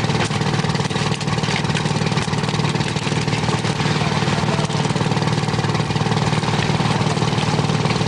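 Fishing boat's engine running steadily, a continuous low drone with no change in speed.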